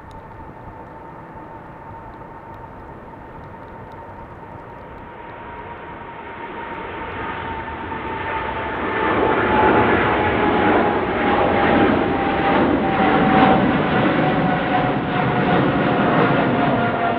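Boeing 777-300ER's GE90 turbofan jet engines at takeoff power, growing much louder over several seconds into a heavy rumble. A steady engine whine falls slowly in pitch as the aircraft goes past.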